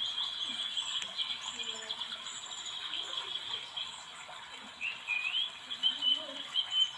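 Small birds chirping and trilling steadily in a high register, with a few louder, gliding chirps about five seconds in.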